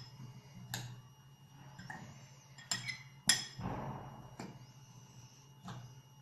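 A spoon clinking against a mixing bowl while stirring chopped vegetables: a handful of sharp, separate clinks, the loudest about three seconds in, followed by a brief scrape of the vegetables.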